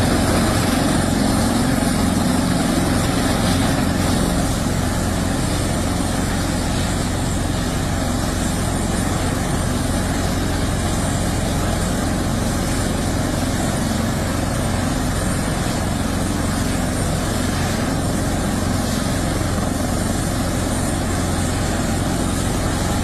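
Helicopter running, a steady, continuous noise of rotor and engines, easing slightly about four seconds in.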